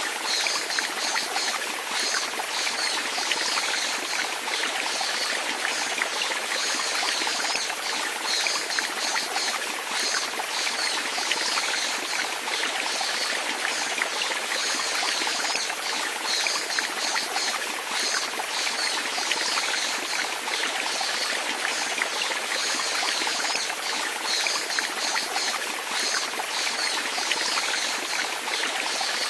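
Running water, flowing and trickling steadily with constant small splashes, without pauses or changes.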